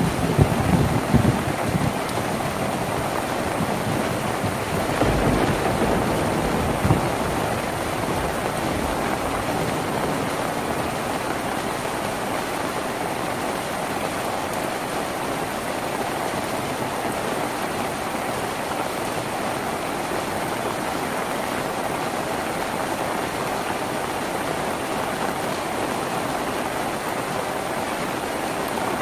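Steady rain on a tin roof, an even patter of drops on the metal. Deep low rumbles come and go during the first several seconds, then the rain runs on unchanged.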